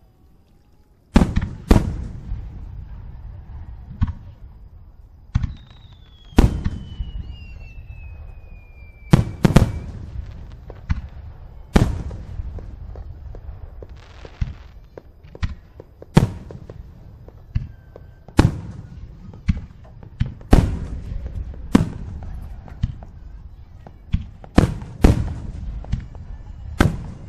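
Aerial firework shells bursting in the sky: a quick, uneven string of sharp bangs, about one every second or so, starting about a second in, with a low rumble between them. A long falling whistle runs through the middle.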